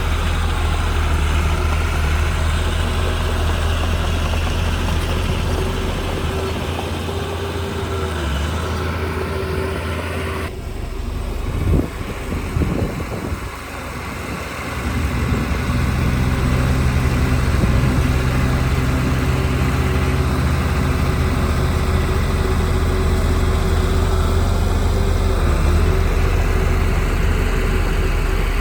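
Heavy construction machinery's diesel engine running steadily. About ten seconds in the sound changes abruptly, with a few knocks in a brief lull, then the engine runs louder again.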